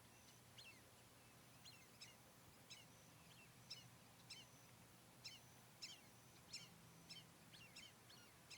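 Small birds chirping: short, sharply falling chirps repeated irregularly, one or two a second, over a faint steady low hum.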